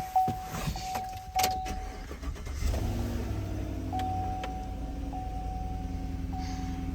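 Chevrolet pickup truck's engine started about two and a half seconds in, then settling into a steady idle. A steady warning chime tone sounds in short-broken stretches throughout, with a few clicks before the start.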